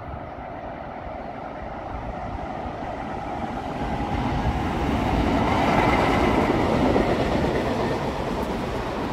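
Electric freight train, a red electric locomotive hauling container wagons, approaching and passing beneath: the rumble of wheels on rail grows louder, is loudest about six seconds in, then settles into the steady run of the wagons going by.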